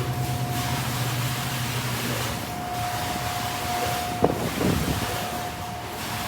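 Car wash running: a steady hiss of water spray with a machine hum and a thin steady whine. A single knock comes a little past four seconds in.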